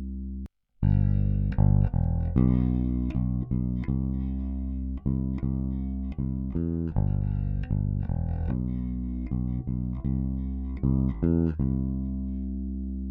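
Bass guitar playing a line of plucked notes through a Warm Audio WA-2A optical compressor set to limit with pre-emphasis, the note peaks held fairly even. A held note cuts off about half a second in, and the line ends on a long note left ringing.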